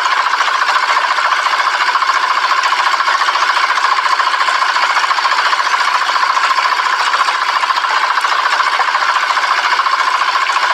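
Miniature model diesel-engine water pump running steadily with a fast, even chattering rhythm and no deep low end.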